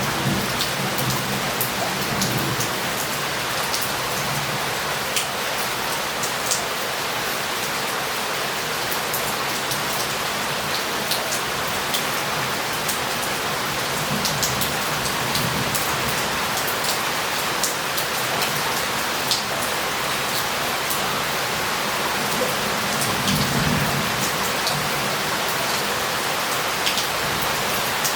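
Heavy rain falling steadily on roof tiles and pavement, with water running off and many close, sharp drips and splashes. Low rumbles of thunder swell up a few times, the strongest near the end.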